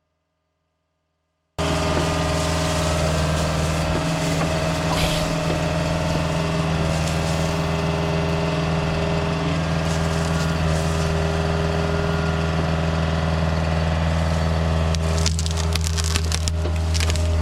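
Excavator's diesel engine running steadily under load while brush and woody debris crack and crunch, with heavier crunching near the end. The sound starts abruptly after about a second and a half of silence.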